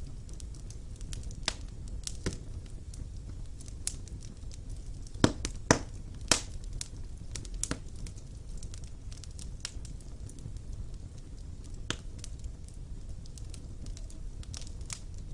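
Wood fire burning in a fireplace: a low steady rumble of flames with irregular sharp crackles and pops, several louder pops coming close together about five to six seconds in.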